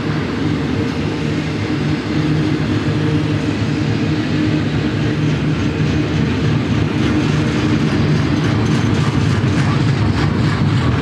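Double-stack container train's well cars rolling past at speed: a steady, loud rumble of wheels on rail, with wheel clicks over the rail joints coming through more clearly in the last few seconds as the final cars go by.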